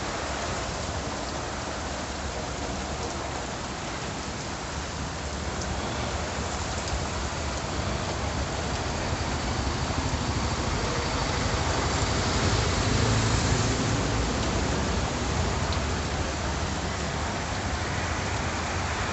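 Heavy rain falling steadily, a dense even hiss of rain on surfaces that swells a little louder, with a deeper rumble, about two-thirds of the way through.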